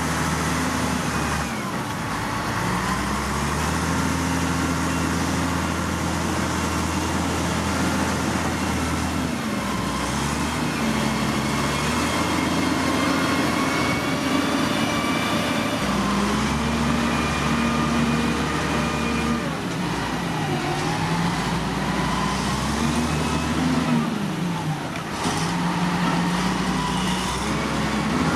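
Diesel engines of heavy earthmoving machinery working on site, their revs rising and falling repeatedly under load.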